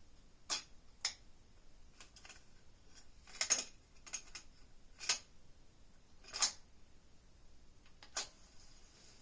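Yamaha K-1A cassette deck's transport controls and mechanism clicking: about ten sharp, separate clicks at uneven intervals, a few bunched together in the middle, over a faint hiss.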